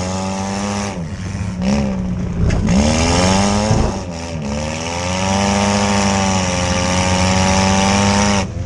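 Compact demolition derby car's engine revving up and down under throttle in several surges as the car drives across the arena. Its pitch holds steady for the last few seconds, then drops off sharply near the end.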